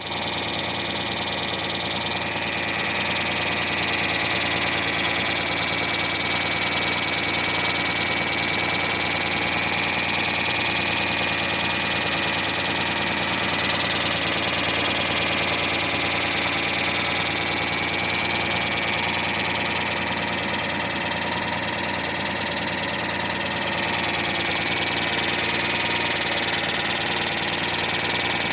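Honda BP50 four-stroke engine running steadily, with a fairly audible rubbing noise whose source the owner cannot find. The rubbing does not stop the engine running properly.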